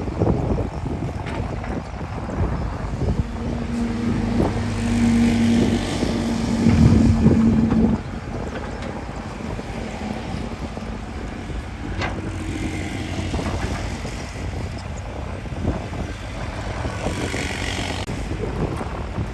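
SHANTUI SD16L bulldozer's diesel engine running under load while pushing topsoil, with wind buffeting the microphone. A steady engine tone comes up about four seconds in and drops away sharply about halfway through.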